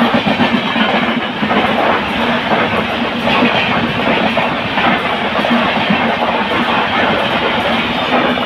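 A train running through the station at speed, a loud, steady rumble with wheels clattering over the rails.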